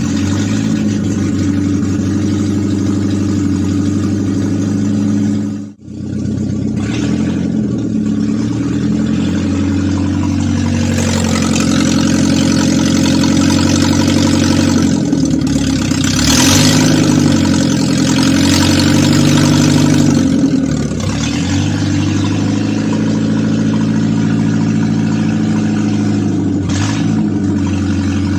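BMW E36 engine running, newly fitted with a clutch and pressure plate, at a steady idle of about 1,000 rpm. Its note shifts between about 11 and 21 seconds in. A brief sudden cut-out comes about six seconds in.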